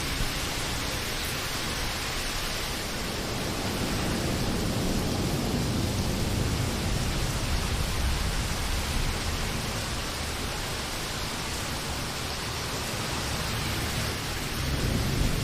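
Steady rain hissing, with low rolling thunder that swells a few seconds in and builds again near the end.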